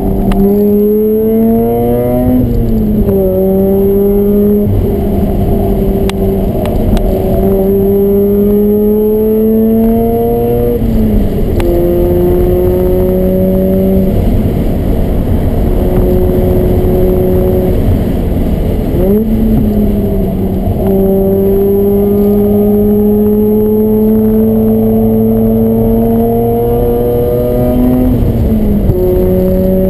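Mazda RX-8's two-rotor Renesis rotary engine, fitted with an aftermarket header, mid pipe and HKS exhaust, heard from inside the cabin while being driven hard on track. The engine note climbs steadily in pitch and drops back several times as the driver shifts or lifts between corners.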